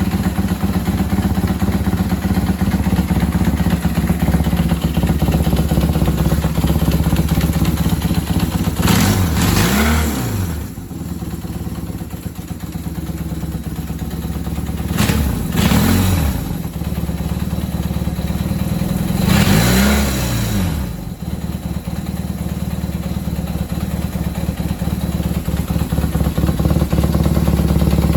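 1976 Kawasaki KZ400 parallel-twin motorcycle engine idling cold after start-up. Its revs are briefly blipped up and back down three times: about a third of the way in, near the middle, and about two-thirds through.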